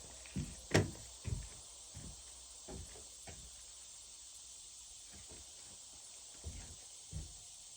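A series of light thumps and knocks at irregular intervals, with one sharper knock about a second in, over a steady low hum.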